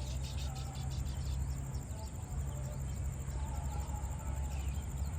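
Small birds chirping in many short, quick high notes over a steady high insect trill, with a low rumble underneath.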